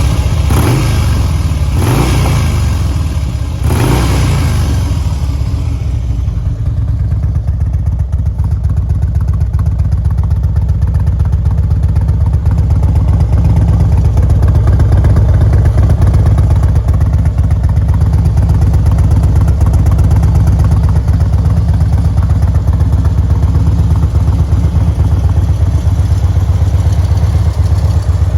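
2006 Harley-Davidson Road Glide's 1450 cc fuel-injected V-twin running through S&S oval mufflers. It is blipped three times in the first few seconds, then settles to a steady idle.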